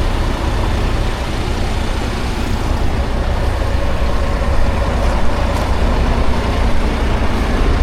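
Semi-truck's diesel engine running steadily with a low rumble.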